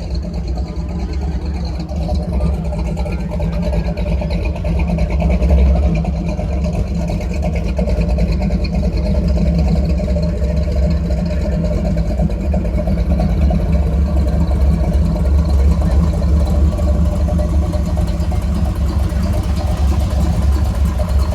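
Car engine running steadily with a deep, low rumble, swelling slightly a few seconds in.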